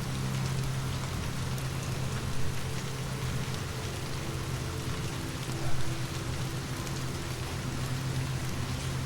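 Steady rain falling in a continuous patter, over a low steady rumble. Two brief louder knocks come about two and a half seconds in and near six seconds.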